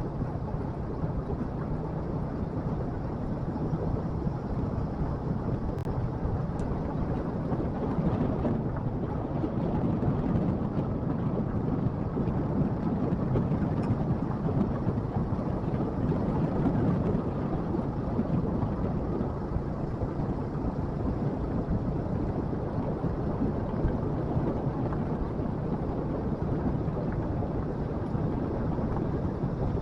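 Motorcycle riding along: the engine runs steadily under a continuous rumble of wind and road noise, swelling a little near the middle.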